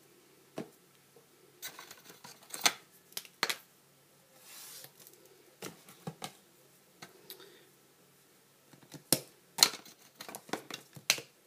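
A craft piece being handled and cut by hand: irregular clusters of sharp clicks and snips, with a brief scraping sound about four and a half seconds in.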